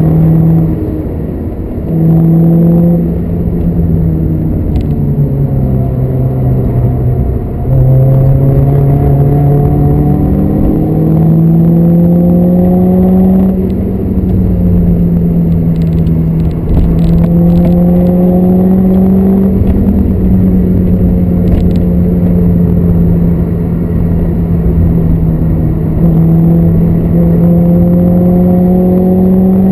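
VW Lupo's engine heard from inside the cabin under hard driving, its pitch climbing as the car pulls and dropping back at each gear change, several times over.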